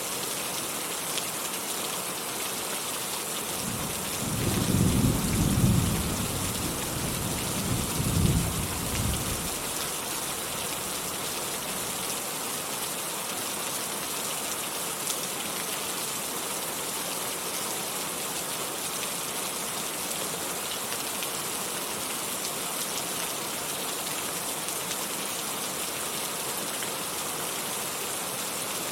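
Steady rainfall hissing, with a roll of thunder rumbling in about four seconds in, swelling twice and dying away after a few seconds.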